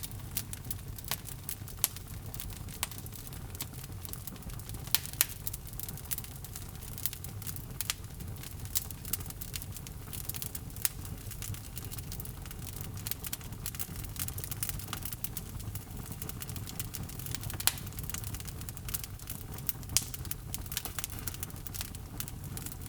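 Wood logs burning in a fireplace: a steady low rumble of flame with constant irregular crackling and occasional sharper pops from the burning wood.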